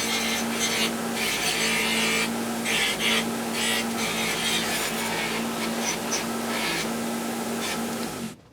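Small electric power tool running steadily while it abrades old paint off a metal windshield wiper arm, a rough, rasping scrape that comes and goes over the motor's hum and cuts off sharply near the end.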